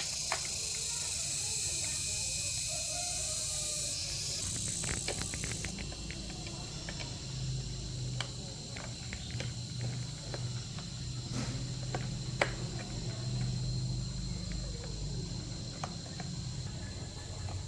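Insects buzzing steadily, with a dense high hiss that drops away about five seconds in. Scattered light clicks and taps follow through the rest, over a low steady hum.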